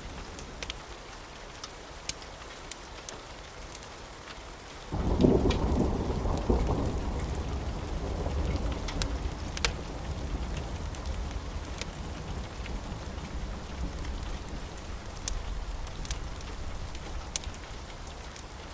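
Steady rain falling, with scattered sharp ticks. About five seconds in a roll of thunder breaks in suddenly, rumbling low and fading slowly over the following several seconds.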